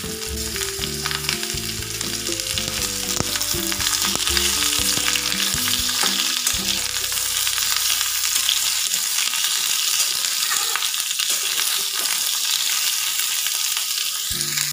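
Cubed potatoes just added to hot oil and panch phoron, sizzling steadily in a metal kadai while a spatula stirs them.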